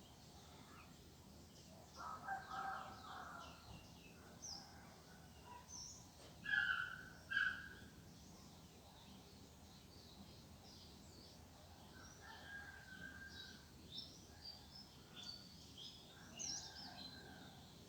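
Birds calling: many short, high chirps throughout, with a few longer, lower calls mixed in, the loudest a pair of calls about seven seconds in.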